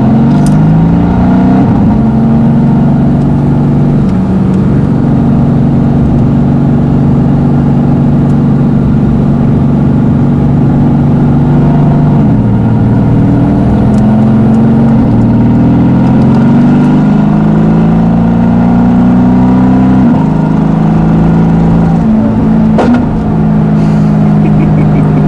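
Tuned Mercedes-AMG GT S twin-turbo V8 running under way, its note gliding up as it pulls and stepping to a new pitch several times with gear changes. A short sharp crack comes near the end.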